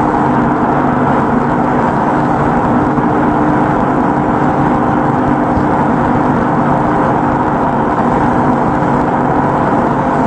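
Machinery running with a steady hum and whir, an even, unchanging drone with no knocks or changes in speed.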